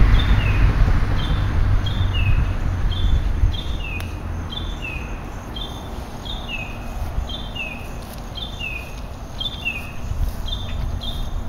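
A bird calling over and over in a repeated two-part phrase: a short high note followed by a lower falling note, about one pair a second. A low rumble is strongest at the start and fades over the first few seconds.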